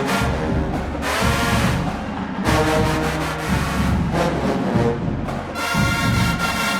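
Marching band playing: brass holding sustained chords over heavy low drums, in phrases that restart every second or two.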